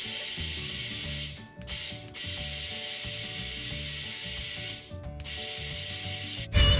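A fast mechanical ratcheting rattle from a tool, in four bursts that start and stop abruptly, the longest about two and a half seconds, over soft background music.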